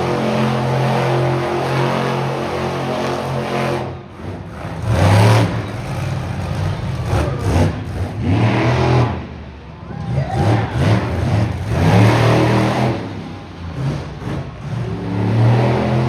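Monster truck engines running and revving hard, the pitch climbing and falling repeatedly, with brief drops in level between bursts of throttle.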